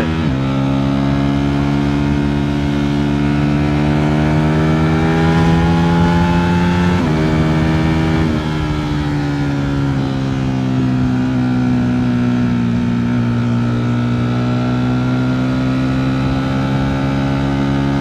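Ducati Streetfighter V4 S's V4 engine under way, its note climbing slowly as the bike pulls, then dropping sharply about seven seconds in at an upshift, after which it holds at steady cruising revs.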